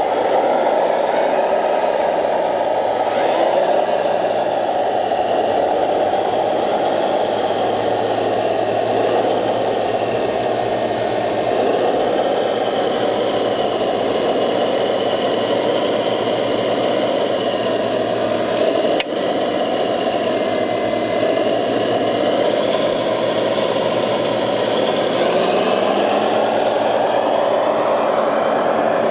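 Motors of 1/14-scale RC construction models running steadily: a continuous whirring hiss with a thin high whine. The pitch rises near the end.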